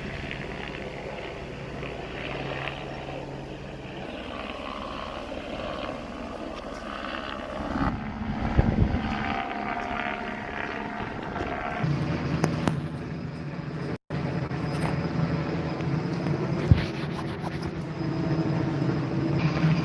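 Helicopter drone, steady and low, growing louder about two-thirds of the way in. The sound cuts out completely for an instant partway through, and there is a single sharp click shortly after.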